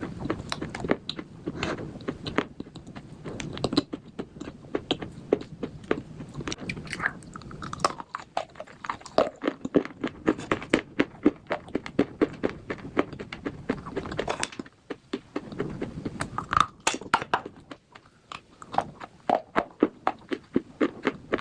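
Slate bars being bitten and chewed: rapid, crisp crunching, many crunches a second, with a few brief pauses between bites.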